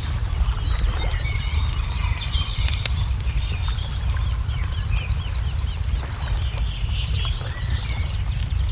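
Wood fire crackling with frequent sharp pops over a steady low rumble, while small birds chirp and whistle throughout.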